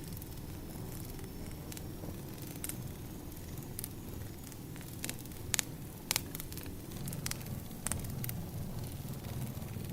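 Wood fire crackling: irregular sharp pops and snaps of burning firewood over a steady low rumble, with the loudest pops about halfway through.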